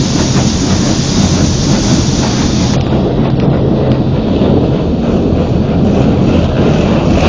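Automatic car wash working over a car, heard from inside the cabin: water spray and machinery beating on the body in a loud, steady rumble with a hiss that drops away about three seconds in.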